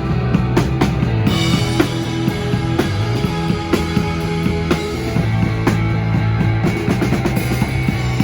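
Loud live rock band playing: a busy drum kit pounds under sustained low chords, and cymbals crash in about a second in.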